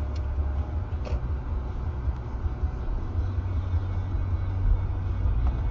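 Steady low rumble of a car driving: engine and road noise, with two faint ticks about a second apart near the start.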